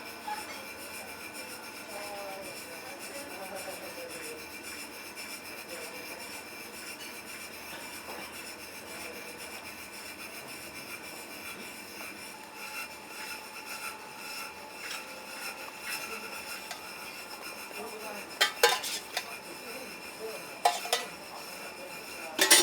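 Restaurant kitchen work: utensils and dishware being handled and scraped over a steady background hum. Three sharp clanks of dishware come in the last few seconds.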